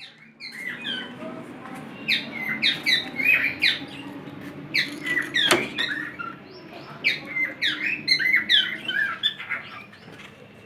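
Many small caged birds in an aviary room chirping and squawking busily in short overlapping calls, with a single sharp click about halfway through.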